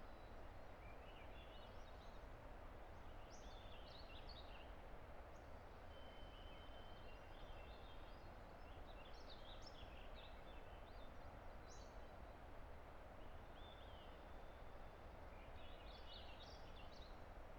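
A distant river rushing steadily, with songbirds singing short, high, twittering phrases on and off over it, in several bursts through the clip.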